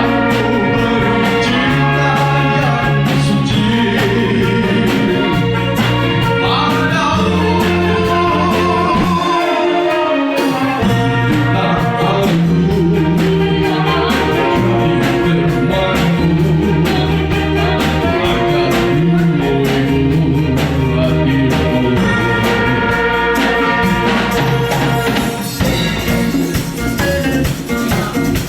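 A band playing a song in rehearsal: a sung lead vocal over bass, guitar and drums.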